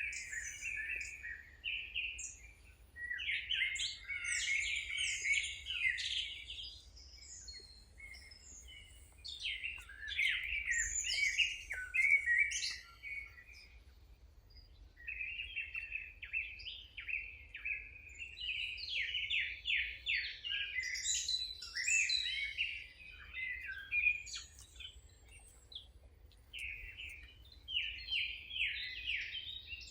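Songbirds singing: runs of quick, warbling chirps, each phrase lasting a few seconds with short pauses between, over a faint low rumble.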